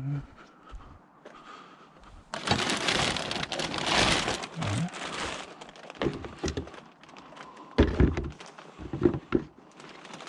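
Rubbish and scrap being rummaged through in a skip: about three seconds of rustling and crinkling, then several knocks and thunks as items are shifted.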